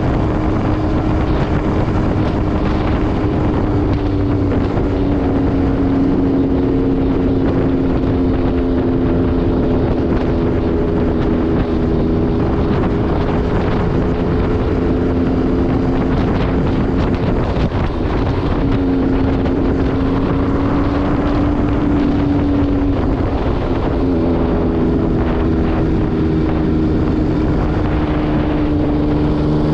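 MV Agusta Brutale 800RR's three-cylinder engine, through an SC Project exhaust, running at a fairly steady cruise with wind rushing over the microphone. The engine pitch holds mostly level, dips briefly about halfway through, and starts rising near the end as the bike accelerates.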